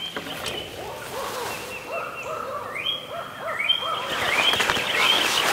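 Birds calling in the woods, with owl-like hoots: a run of short arching notes, over higher steady calls, and one call rising in pitch about three seconds in.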